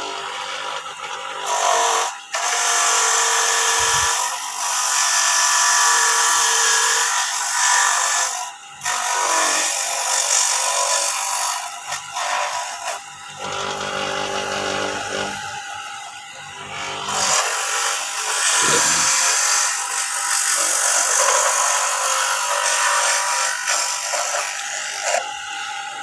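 Electric coconut-grating machine running and grating coconut, in two long loud stretches with a quieter spell between them.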